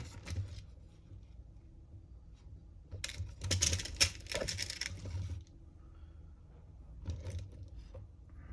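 Small metal screws clinking and rattling as they are sorted through by hand, in a dense run of clicks starting about three seconds in and lasting about two seconds, with a few lighter clicks near the end.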